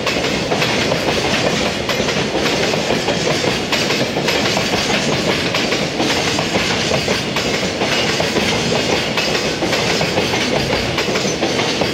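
Loaded JR Freight container flatcars rolling past, with a steady rumble of wheels on rail and a clickety-clack as the wheels cross the rail joints.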